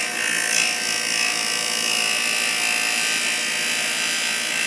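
Small electric grinding tool running steadily while grinding the plastic of a medicine bottle, a continuous whine with a grinding hiss.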